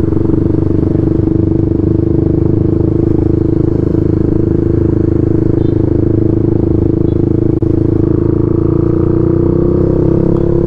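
Motorcycle engine and exhaust heard from the saddle while cruising at low city speed: a steady engine tone whose pitch rises slightly near the end as the bike speeds up.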